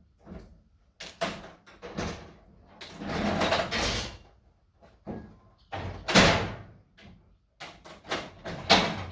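A garage door being handled during installation: a run of knocks, bangs and scraping sounds, the loudest bang about six seconds in.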